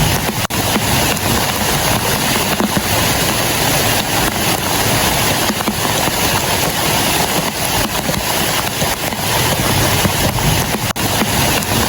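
Heavy rain falling steadily on a clear plastic sheet shelter, a dense, even hiss and patter that breaks off for an instant about half a second in and again near the end.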